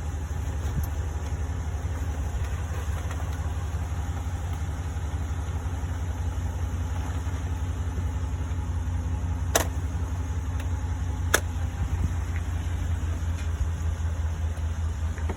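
Steady low hum of a vehicle engine idling. Two sharp clicks come about two seconds apart, a little past the middle.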